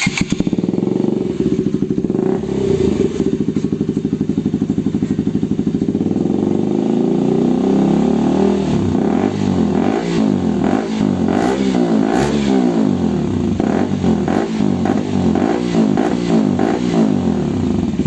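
KTM RC 200's single-cylinder engine running loud through a freshly fitted bend pipe, with no stock silencer. It holds a steady idle at first, then from about eight seconds in it is revved in repeated throttle blips.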